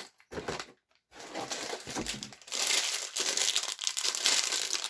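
Sealed plastic LEGO parts bags crinkling and rustling as they are handled, with a short gap about a second in and the crinkling louder from about halfway through.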